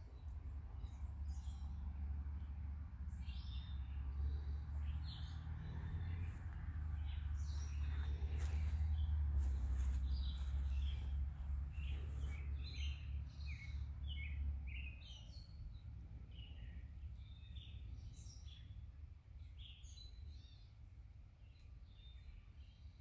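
Birds chirping and singing over a low rumble that eases off about fifteen seconds in.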